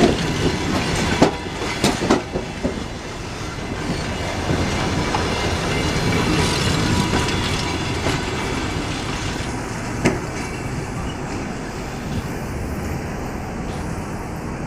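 Passenger train rolling into the station behind a ChS7 electric locomotive, its wheels clacking over the rail joints. There are a few sharp knocks in the first couple of seconds and another about ten seconds in.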